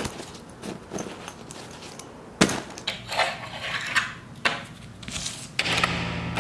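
Scattered knocks and clatters of household objects being handled, like dishes or cups, in a small room, the loudest about two and a half seconds in. Music comes in near the end.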